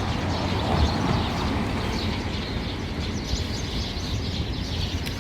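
A flock of Eurasian tree sparrows chirping busily, many short overlapping chirps that thicken about two seconds in, over a steady low rumble.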